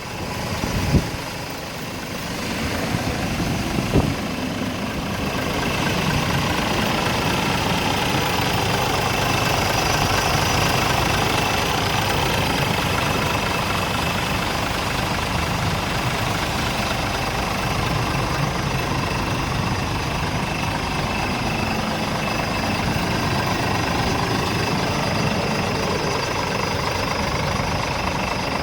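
Scania R410 tractor unit's 13-litre inline-six diesel idling steadily. Two short sharp knocks come in the first few seconds.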